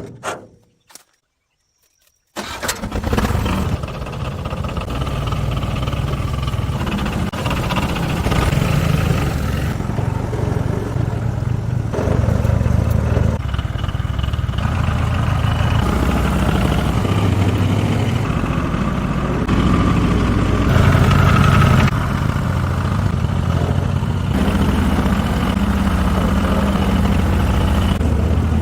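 Old farm tractor engine starting about two seconds in, then running steadily at idle, its level shifting abruptly a few times.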